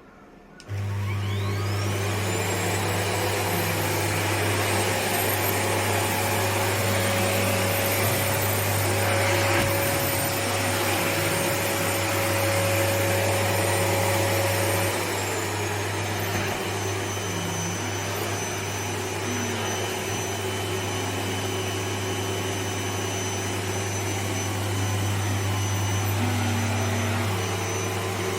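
Mitsubishi Electric Be-K TC-GM1J-N paper-bag vacuum cleaner switched on about a second in, its motor whine rising as it spins up and then running steadily. About halfway through, the whine drops to a lower pitch and the motor runs on at a lower speed.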